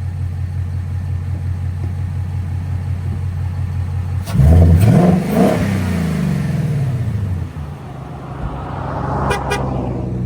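A 2024 Mustang GT's 5.0-litre V8, fitted with high-flow air filters and with its intake carbon traps removed, idling steadily, then revved sharply a little over four seconds in, the pitch climbing and falling back over about three seconds. A second, gentler rise and fall in revs follows near the end.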